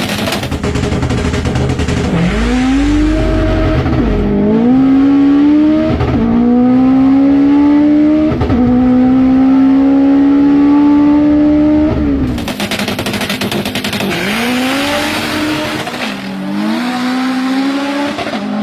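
Drag race pass between a turbocharged K20-engined Honda Civic and a Kawasaki ZX-14 motorcycle, both four-cylinder engines, run at full throttle. One engine climbs in pitch through three quick upshifts over about ten seconds, then cuts off into a rushing noise. Near the end an engine rises and shifts again.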